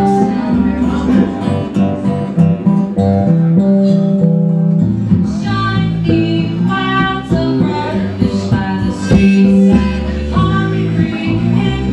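Music: an acoustic guitar strummed with singing.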